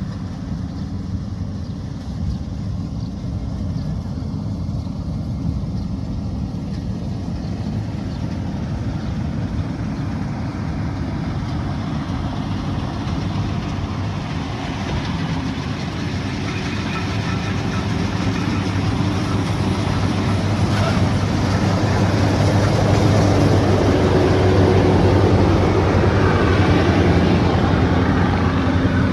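Diesel engine of a rice combine harvester running steadily under load, a deep even drone that grows louder from about halfway through as the machine comes closer.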